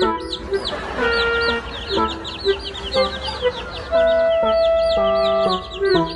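Chicks peeping rapidly, several short high chirps a second, over background music with held notes.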